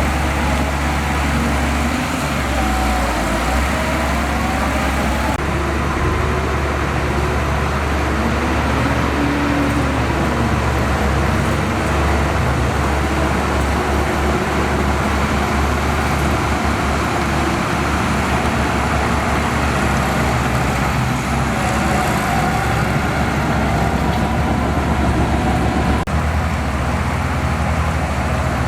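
Bulldozer's diesel engine running steadily under work, its note rising and falling slightly a few times.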